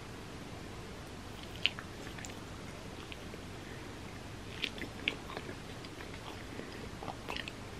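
Close-up mouth sounds of biting and chewing a piece of pizza crust dipped in marinara, with scattered sharp crackles and wet clicks, the sharpest about a second and a half in.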